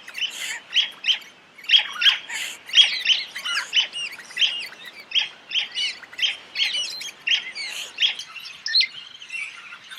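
Crimson rosellas calling: rapid short chirping notes, several a second, thinning out near the end.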